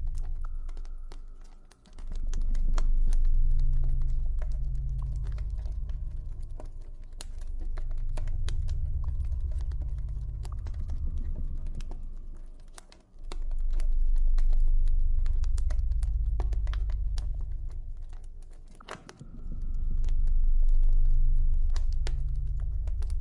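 Campfire crackling with frequent sharp pops and snaps over a deep, low ambient drone. The drone swells and fades in long waves lasting several seconds each.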